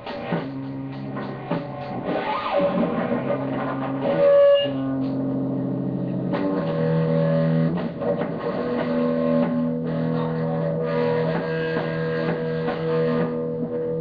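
Live rock jam: a guitar playing held notes and chords through an amplifier over bass and drums, with a louder accent about four and a half seconds in.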